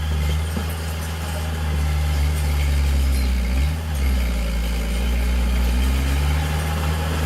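Heavy diesel engine of earthmoving machinery running steadily, with a brief rise and fall in engine speed about halfway through.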